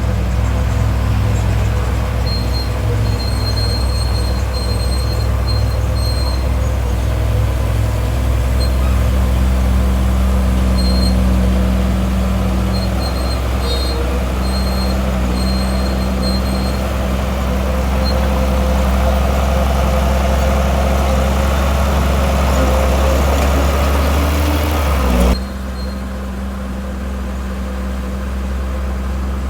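Heavy diesel engine of earthmoving machinery running steadily at working revs. About 25 seconds in the sound changes abruptly and carries on a little quieter.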